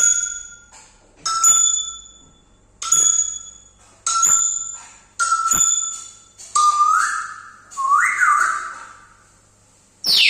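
Pet parrot whistling: a run of short, clear notes about every second and a half, each starting sharply and fading, then two rising whistles about two-thirds of the way in.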